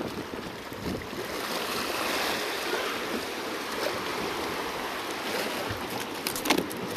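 Sea waves washing against shoreline rocks, a steady surging wash that swells about two seconds in. A few sharp clicks come near the end.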